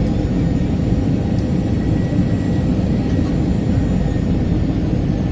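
Steady cabin noise inside an Airbus A321-211 in flight: the rumble of its CFM56 jet engines and the airflow, with faint steady engine tones on top.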